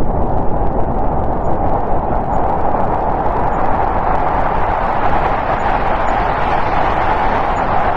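Snowstorm wind blowing steadily, a loud, even rush with a low rumble beneath, swelling slightly midway.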